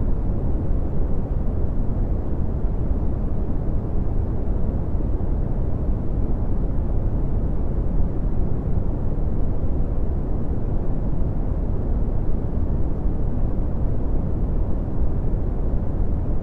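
Steady red (Brownian) noise: a deep, even rumbling hiss with most of its energy in the bass, fading away toward the treble, unchanging throughout.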